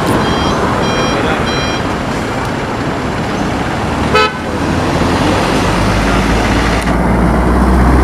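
Road traffic noise with a steady rumble, a few short high beeps repeating in the first two seconds, and a brief horn toot about four seconds in. Near the end, a vehicle engine's low drone grows louder.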